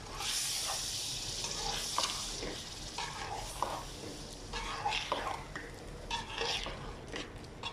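Chicken and onion-tomato paste frying and sizzling in a pan, stirred with a slotted spatula that scrapes and clicks against the pan now and then. The sizzle is strongest in the first couple of seconds. The masala is being fried until the oil separates.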